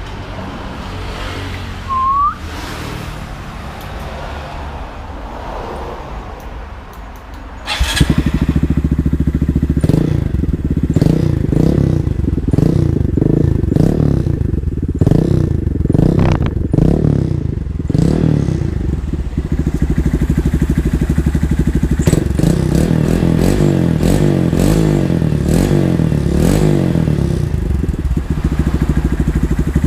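Honda Grom MSX125's 125 cc single-cylinder four-stroke engine through a PR2 high-mount exhaust with its baffle fitted. It runs quietly at first, gets loud suddenly about eight seconds in, and is revved in a string of short blips before settling to a steadier loud run with a few lighter revs.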